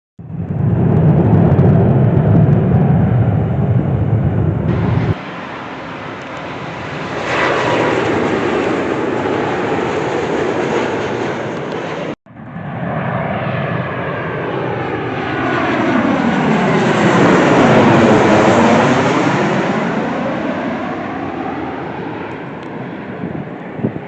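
Airliner jet engines as planes pass close by, in separate clips cut together. There is a deep rumble at first, then an abrupt change about five seconds in, and a sudden cut about twelve seconds in. After that a plane passes overhead, swelling to its loudest with a sweeping, phasing whoosh, then fading away.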